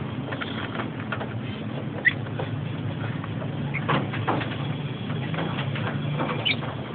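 Pet birds making a few short, high chirps among frequent small scratching and clicking sounds, over a steady low hum.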